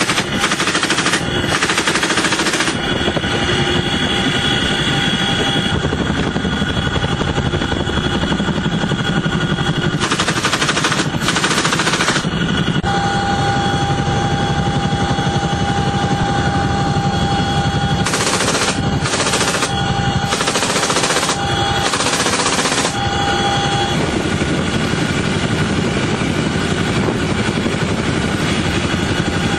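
Bursts of automatic gunfire over a steady engine drone with a constant whine. One burst comes at the start, another about ten seconds in, and a run of four short bursts between about eighteen and twenty-three seconds in.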